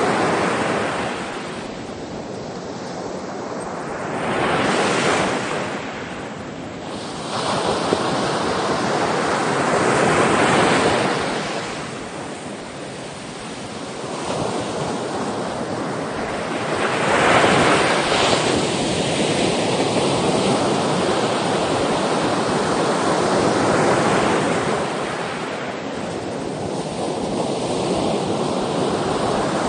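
Ocean waves surging and washing on the shore in slow swells every few seconds, a continuous rush of surf between them.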